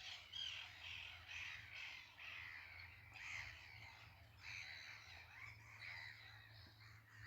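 Faint, distant birds calling: a continual run of short, overlapping calls, roughly two a second.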